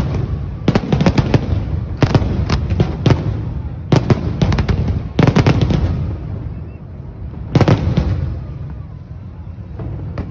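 Fireworks going off in quick clusters of sharp bangs and crackles over a low rumble, every second or two. They ease off over the last couple of seconds.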